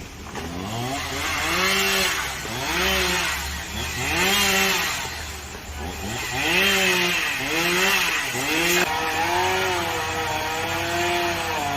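Two-stroke chainsaw revving up and dropping back again and again, about once a second, as it works through wood, then running at a steadier pitch near the end.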